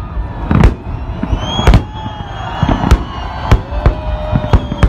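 Salute fireworks bursting overhead: five sharp bangs, about one a second, with long held tones sounding underneath.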